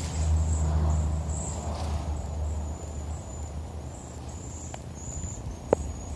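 A large flock of birds chirping, many short high-pitched calls repeating over one another, over a low engine-like rumble that fades after about three seconds. A single sharp click near the end.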